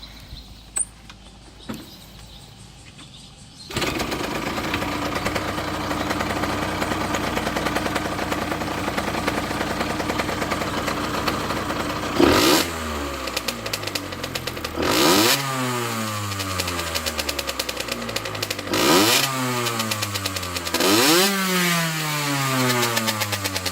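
Yamaha TZR50's 50 cc two-stroke single engine, fitted with a Kijima expansion chamber and a Dogfight Racing silencer whose glass-wool packing is burnt out, starting about four seconds in and idling. It is then blipped four times, each rev rising sharply and falling back to idle.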